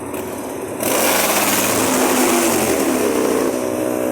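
Motorcycle engines passing close by, suddenly loud about a second in, with an engine note that falls in pitch as a bike goes past.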